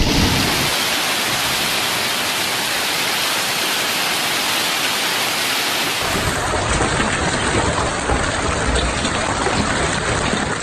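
Heavy rain from a storm, a steady dense hiss that takes on a deeper rumble about six seconds in.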